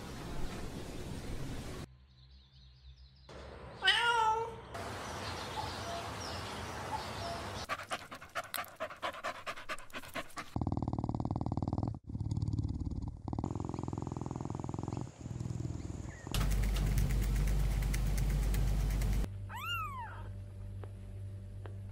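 A run of short clips of small pets, each with its own sound. About four seconds in there is a high wavering squeak, around the middle a stretch of rapid clicking, and near the end a newborn kitten's single rising-and-falling mew.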